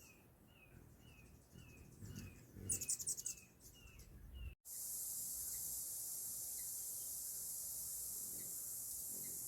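A small bird gives short chip notes, about two to three a second, with a brief louder burst of high ticking in the middle. About four and a half seconds in the sound cuts off sharply. A steady high hiss follows, with only an occasional faint chip.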